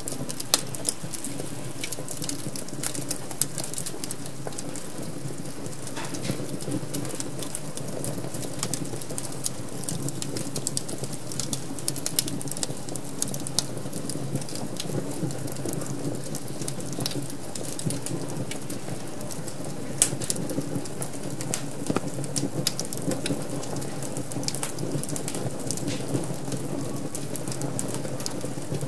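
Wood fire crackling in a fireplace: a steady low rush of flames with frequent irregular sharp pops and snaps.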